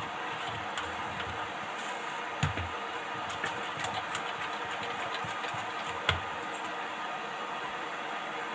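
Kitchen handling sounds: a few light clicks and two soft knocks, about two and a half and six seconds in, over a steady background hiss.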